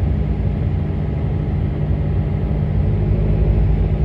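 Steady low engine drone and rumble, heard from inside a moving tour vehicle.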